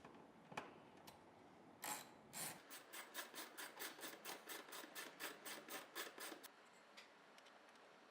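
Washing machine transport-bracket bolts being screwed back into their holes and tightened with a wrench. A click comes first, then a run of short strokes of the tool, about four a second, lasting nearly four seconds.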